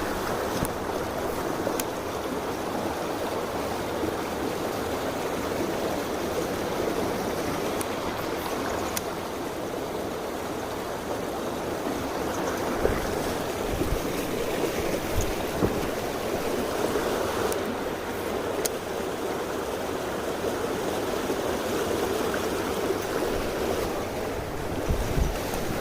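Mountain stream rushing steadily over rocks, with a few faint knocks and clicks scattered through it.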